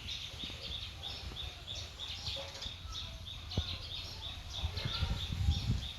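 Songbirds chirping: a steady run of short high chirps, about two or three a second, with other chirps mixed in over a low rumble.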